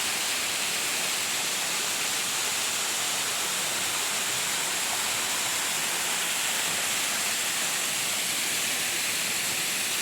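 Waterfall rushing: an unbroken, steady hiss of falling water.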